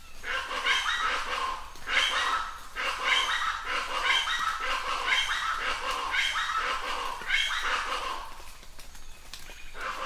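Birds calling in a run of repeated calls, roughly one a second, easing off near the end, over a faint hiss of falling rain.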